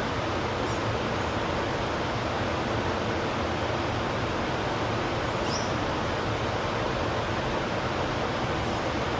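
Steady, even rushing background noise, with a faint short high chirp about five and a half seconds in.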